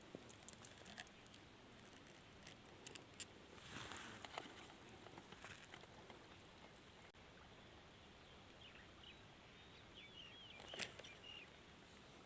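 Near silence outdoors: faint scattered ticks and rustles, with a few faint high squeaks about ten seconds in.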